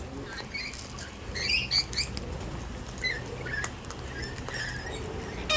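Parrots feeding at close range: scattered soft squeaks and short chirps, bunched about a second and a half in and again around three to four seconds, with a few sharp clicks now and then.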